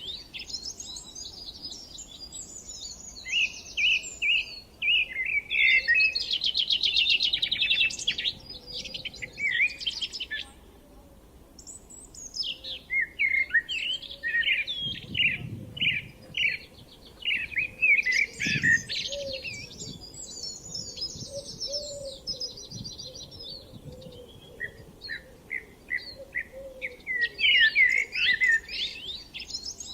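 Songbirds singing in overlapping phrases of quick chirps, warbles and rapid trills, with a brief lull about eleven seconds in.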